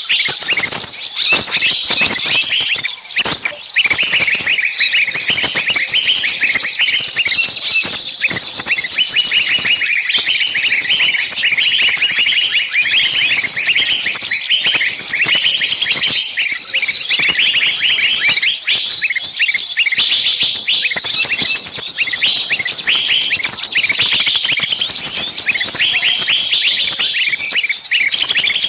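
Dense, loud chorus of many small songbirds calling at once: rapid shrill chirps, chatters and short trills piled over each other with no break. It is a bird-lure call of agitated small birds screaming as if one were caught, used to draw other small birds in.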